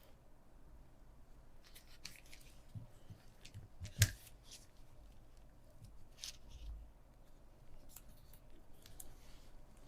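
Plastic parts of a mini fan being handled and fitted back together: faint scattered clicks and rustles, with one sharp snap about four seconds in.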